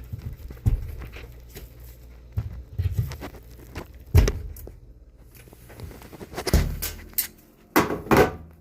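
Handling noise from the washing machine's inlet hose fittings and filter screens: irregular knocks, clicks and rustles, with a dull thump about four seconds in, another a little past six seconds, and two sharp clicks near the end.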